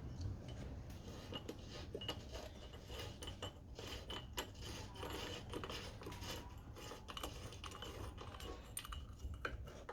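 Irregular small metallic clicks and clinks of a carburettor's fuel bowl and nut being worked loose and handled by hand with tools, on a small Honda GX110 engine.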